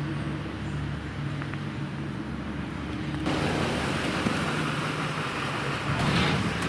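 A motor vehicle's engine running steadily with a low hum. A broader rushing noise joins about three seconds in and swells near the end.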